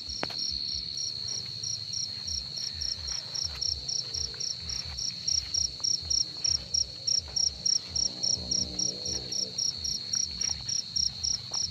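Crickets singing: a continuous high trill with a second cricket chirping in even pulses about three times a second. The chirping gets louder about halfway through.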